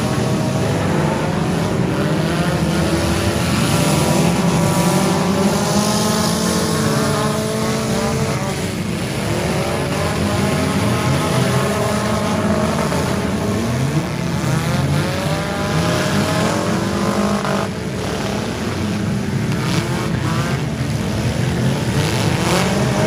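Several four-cylinder demolition derby cars running at once, their engines revving up and down over one another as they drive and ram in the mud.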